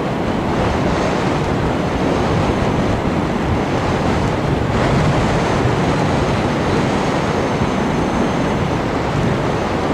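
Steady loud rush of wind and propeller noise from an FPV drone in flight, heard on its onboard camera, with a faint high whine through the middle.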